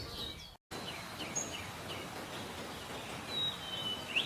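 Forest ambience: a steady background hiss with scattered short, high bird chirps and a few thin whistles. The sound cuts out for a split second about half a second in.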